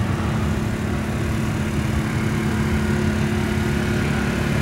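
Vehicle engine idling steadily: an even low rumble with a steady hum.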